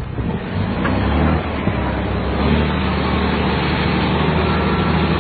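A motor vehicle's engine running hard: a steady low drone that sets in about a second in, over a rushing noise.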